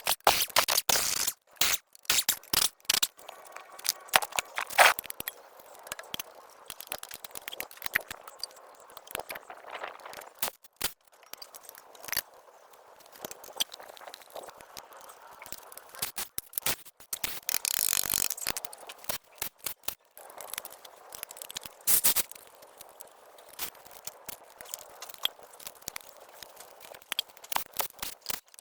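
Irregular scraping, clicking and rattling of hands-on work on vehicle parts, with a longer scraping stretch about two-thirds of the way through.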